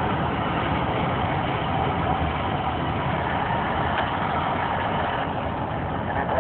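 Steady engine and road noise of a vehicle driving along a highway, heard from inside the cabin.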